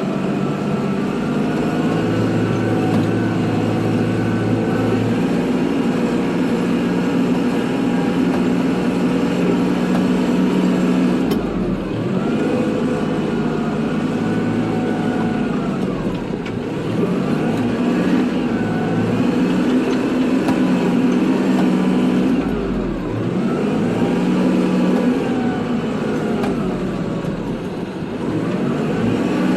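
Kubota tractor's diesel engine running steadily while plowing snow. Its pitch sags and recovers about four times, as the engine takes on load and eases off.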